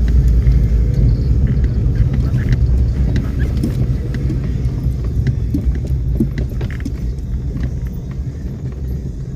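Low, steady rumble of a car's engine and tyres heard from inside the moving car, easing off slowly.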